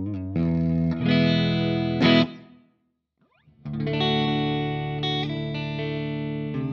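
Electric guitar, a Telecaster with two humbuckers, played through an amp with some drive: chords and notes ring out, stop a little over two seconds in, and after about a second of silence the playing starts again.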